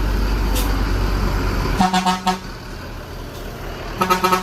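A heavy engine rumbling low, then a vehicle horn sounding in quick short toots a little under two seconds in, and again near the end.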